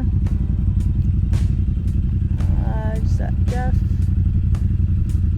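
Side-by-side UTV engine running steadily, a loud low drone, with occasional sharp clicks or knocks.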